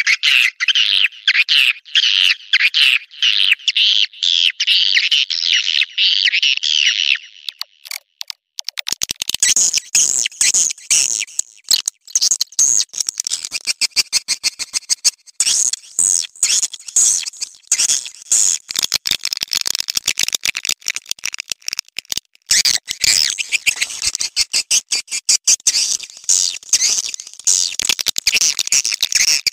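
Swiftlet calls in a played-back mating-call recording, a sound used to attract swiftlets: dense, rapid twittering chirps. About a quarter of the way in the pattern changes to a faster, higher twitter mixed with many sharp clicks.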